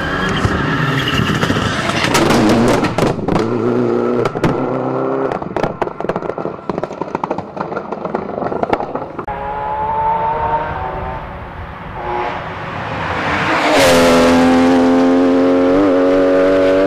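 Rally car engines at full throttle on a stage. In the first half an engine revs hard with a string of sharp cracks and pops. Later a car comes up, grows loud and passes close with its engine held at high revs, dipping briefly for a gear change near the end.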